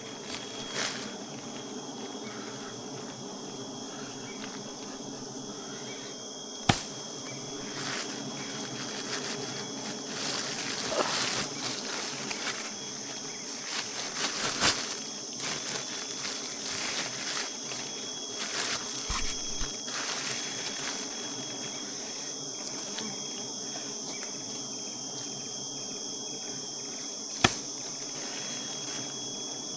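Honeybees buzzing steadily in a dense hum, with busier crackling stretches in the middle and two sharp clicks, one about a quarter of the way in and one near the end.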